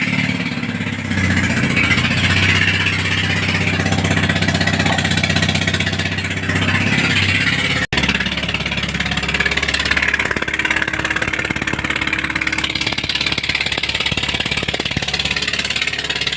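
A car engine running steadily. It drops out abruptly for an instant about eight seconds in, then carries on with a lower, steadier hum.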